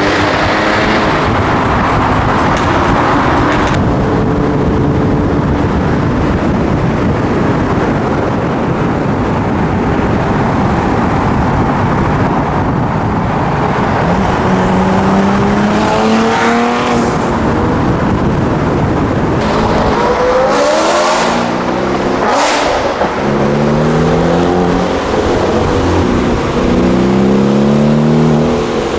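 Car engines revving hard over a loud, steady rushing noise; in the second half an engine's pitch climbs repeatedly, several rising revs one after another.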